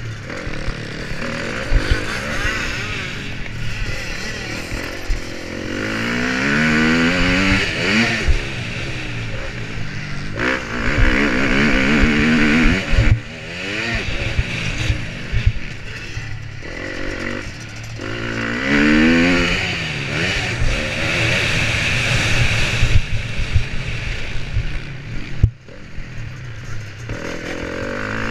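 Motocross bike engine, heard close up, revving up in repeated rising sweeps and dropping back as the rider accelerates and shifts, with bursts of wind rush and sharp knocks from the bike over the track.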